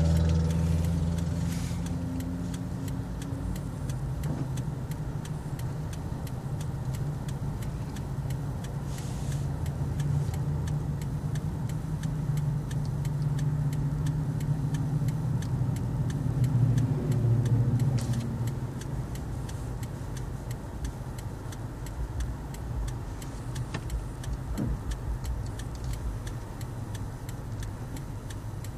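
Car engine running at low speed, heard from inside the cabin as a low steady hum that grows louder in the middle and then eases off.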